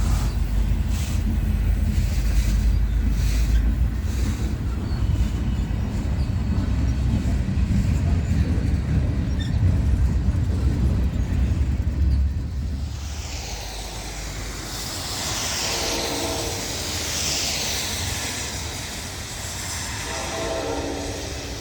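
Train going by with a heavy low rumble, giving way to a hissing rail and wheel noise. Its horn sounds twice in the second half, a short blast and then a longer one near the end.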